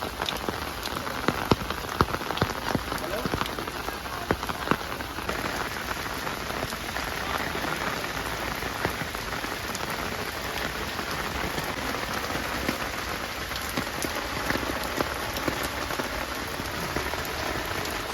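Rain falling, with sharp individual drops striking close by during the first few seconds, then a denser, steadier rain.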